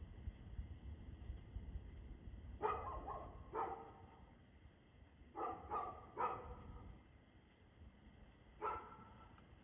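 A dog barking six times in three bunches: two barks, then three in quick succession, then a single bark near the end.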